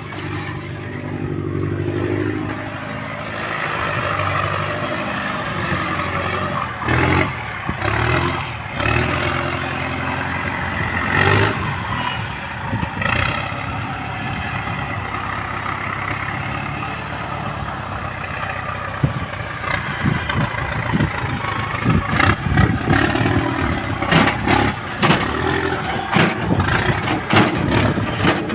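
Farm tractor engine running under load. Clanks and knocks come through the engine sound, growing frequent from about two-thirds of the way in.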